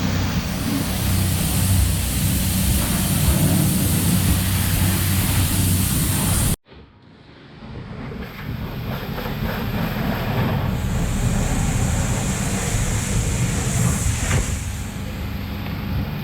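A steady machine running with a loud hiss over a low hum. It cuts off abruptly about six and a half seconds in, then the hiss builds back up.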